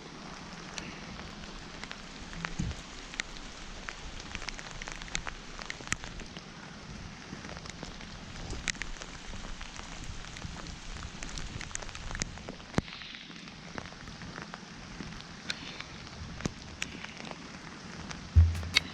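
Rain falling, with scattered drops ticking sharply on a hard surface over a steady hiss. A few low thumps come near the end.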